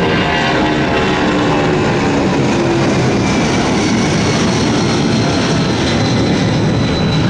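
Boeing 757 jet airliner on its takeoff run, engines at takeoff power: loud, steady jet noise.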